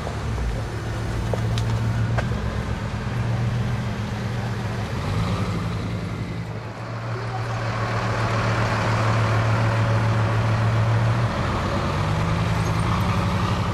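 Bugatti Veyron L'Or Blanc's quad-turbo W16 engine running at low revs as the car pulls away slowly, its note rising briefly twice, about five seconds in and again near the end.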